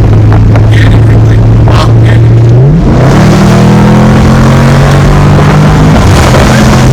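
Dodge Charger Scat Pack's 392 (6.4 L) HEMI V8 with its mid mufflers and resonators deleted, running loud at a steady low note, then rising sharply in pitch about two and a half seconds in as it accelerates, and holding the higher note.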